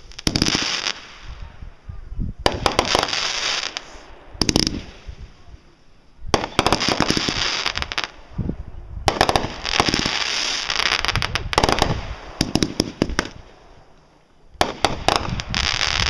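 Aerial fireworks going off in a string of volleys: sharp bangs, each followed by a crackling hiss that lasts a second or two, about six times over the stretch.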